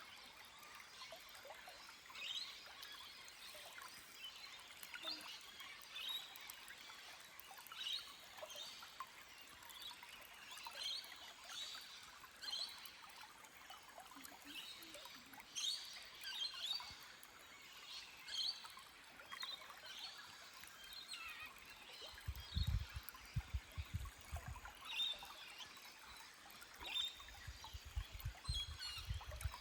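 Forest stream trickling gently over rocks, with birds chirping in short calls again and again. Low rumbles come in twice in the last third.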